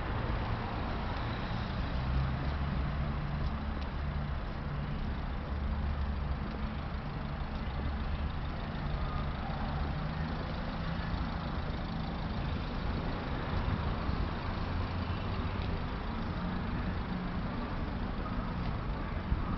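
Steady low rumble of a motor vehicle engine running, with road-traffic noise.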